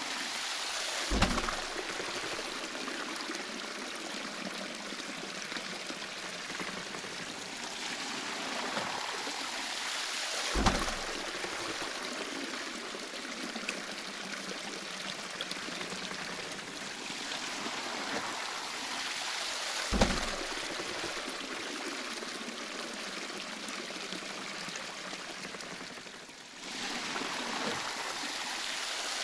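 Water pouring and running steadily at a traditional waterwheel, with a heavier low splash or thump three times, about every nine and a half seconds, as the wheel turns.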